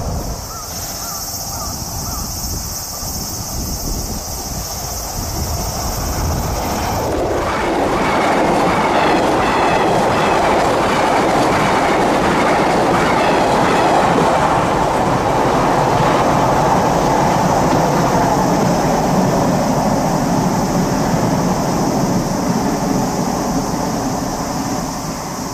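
Train crossing a steel railway bridge: wheels clattering over the rail joints and the bridge rumbling. It comes in sharply about seven seconds in, stays loud for most of the crossing, and eases off near the end.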